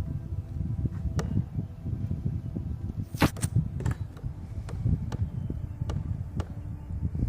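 Woodpecker chiselling into wood to carve out a nest hole: sharp, irregular taps, with a louder cluster of blows about three seconds in.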